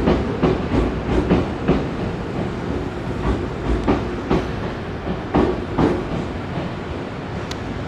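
Nankai electric train rolling along the track, its wheels clacking over rail joints, often in close pairs as each bogie crosses, over a steady rumble.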